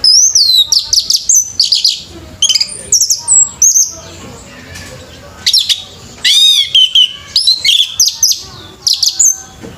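Orange-headed thrush (anis merah) singing a loud, varied song of quick high whistles and chattering phrases, with a short pause about four seconds in.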